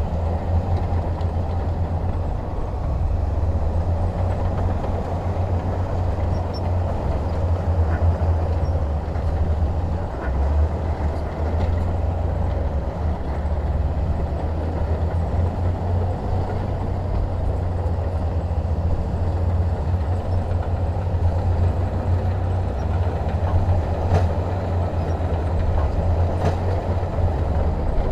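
Heavy diesel machinery running steadily under load, a deep continuous engine rumble with a few faint clanks near the end.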